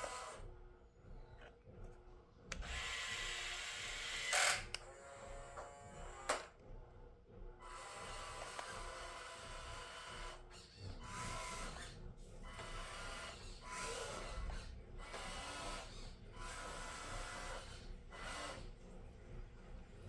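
Small electric drive motor and gears of a 1/18-scale RC Scania truck whirring in short stop-start bursts as it is manoeuvred, with two sharp clicks a few seconds in.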